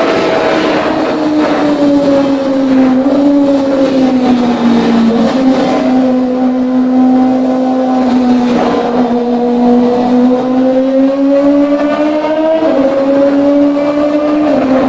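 Kawasaki ZX-25R's inline-four engine running at high revs through a custom exhaust, a steady high-pitched howl. Its pitch eases down over the first few seconds, holds, then steps up slightly near the end.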